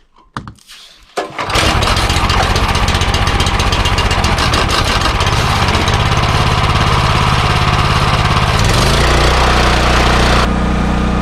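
Small gasoline engine of a pressure washer starting up after a few faint knocks, then running loud and steady. Its low note shifts about eight and a half seconds in.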